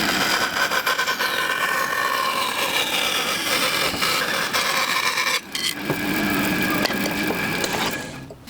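An electric power tool working wood, a motor whine over a rasping noise. It stops briefly about five and a half seconds in, starts again, and cuts off near the end.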